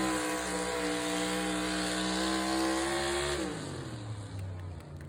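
Pulling truck's engine held at high revs under load, then the revs drop sharply about three and a half seconds in and settle to a low, steady run.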